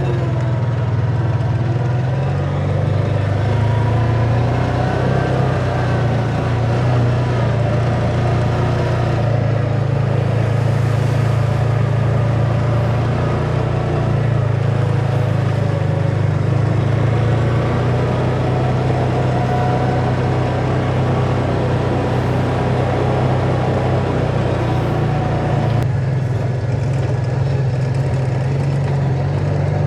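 Kawasaki Teryx side-by-side engine running steadily under load while driving. It is a constant low drone whose pitch drifts only slightly.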